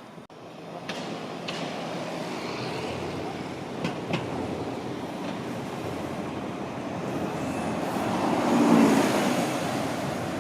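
A London bus passing close in street traffic, its engine noise swelling to a peak about eight to nine seconds in, over a steady traffic hum with a few short clicks in the first half.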